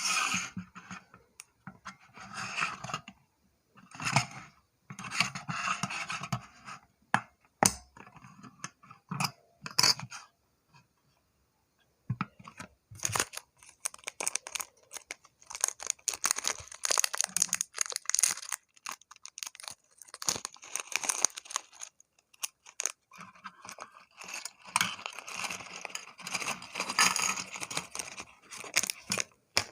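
Handling noises of a plastic bird-shaped toothpick dispenser and its packaging: rustling, tearing and scraping broken up by many sharp clicks and knocks.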